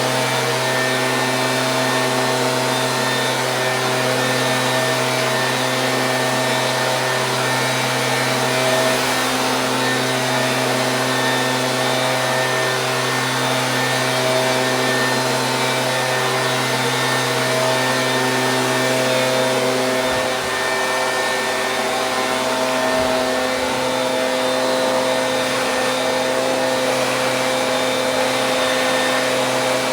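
Stihl BG 86 handheld leaf blower's two-stroke engine running at a steady speed, its engine note mixed with the hiss of the air blast.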